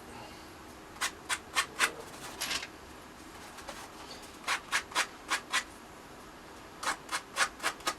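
A worn 3M 150 medium sanding block rubbed in short, quick strokes along the edges of thin plywood pieces, taking the sharp edges off. The strokes come in three runs of about four or five, with short pauses between.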